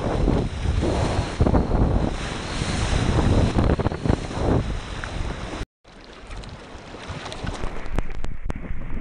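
Wind buffeting a GoPro microphone over rushing and splashing water as a surf kayak rides a wave. A little past halfway the sound cuts off abruptly for a moment, then comes back quieter, with water splashes and a few sharp clicks, and builds again.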